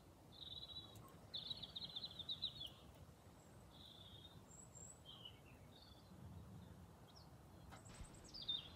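Faint birdsong: a few short high chirps and a rapid trill lasting about a second, with more calls near the end.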